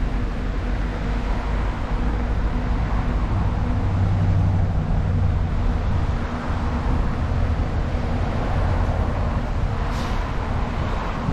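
Steady low rumble of wind and road noise on the microphone of a moving bicycle, swelling for a few seconds in the middle, with a single short click near the end.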